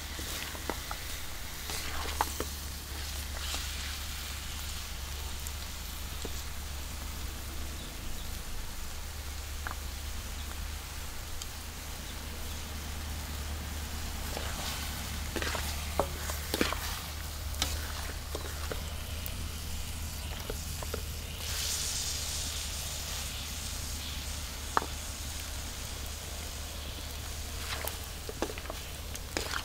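Duck pieces sizzling as they fry in a metal wok over a wood fire, with a metal spatula scraping and clinking against the pan as they are stirred. The sizzling grows louder for a few seconds about two-thirds of the way in.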